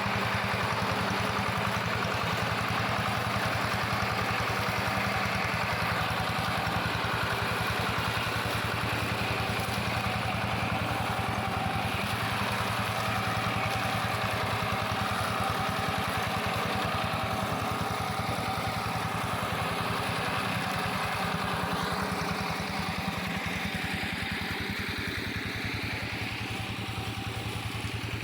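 Engine of a plough tractor converted into a brush mower, running steadily, easing off slightly in the last few seconds.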